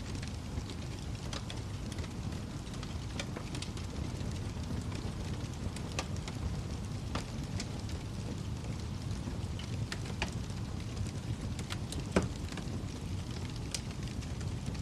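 Wood fire crackling in a fireplace: a steady low rumble of burning with scattered sharp pops and snaps, the loudest pop about twelve seconds in.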